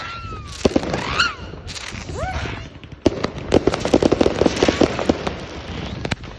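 Fireworks going off: scattered sharp bangs and pops, with a dense run of rapid crackling from about three seconds in.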